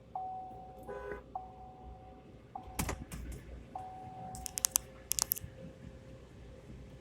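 An electronic beep repeating about every second and a bit: four steady mid-pitched tones, each about a second long, then it stops. A quick cluster of sharp clicks comes near the end.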